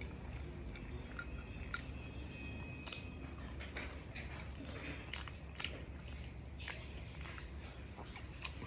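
A person chewing a bagel and ham sandwich with the mouth close to the microphone, making irregular short wet clicks as they chew.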